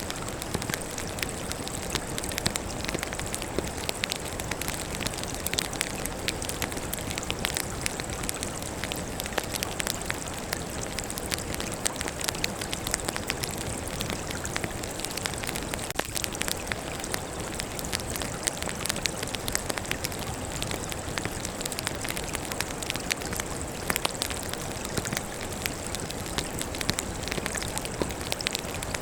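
Wood fire crackling steadily: a constant hiss studded with many irregular sharp pops and snaps from the burning logs.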